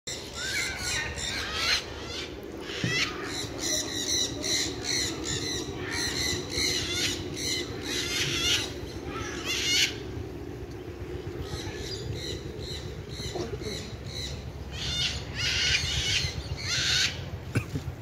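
Many birds squawking, one harsh call after another; the calls thin out for a few seconds after the middle and pick up again near the end.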